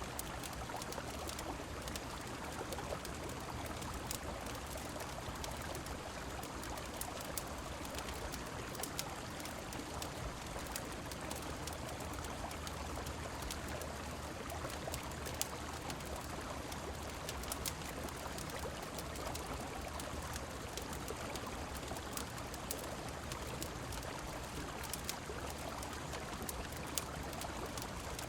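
A river flowing steadily, mixed with rain, under scattered sharp crackles from a wood fire.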